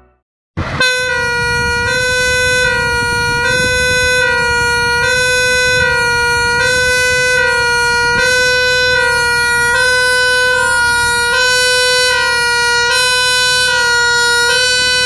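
Fire engine's two-tone siren sounding, a steady hi-lo alternation between two pitches repeating about once a second, starting just under a second in.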